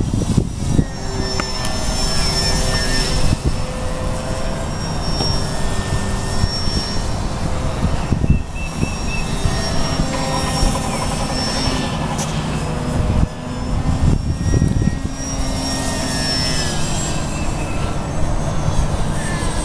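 Twin 2800KV brushless electric motors of a radio-controlled Flite-Test Delta Wing whining as they spin the pusher propellers. Several whining tones shift in pitch as the throttle changes.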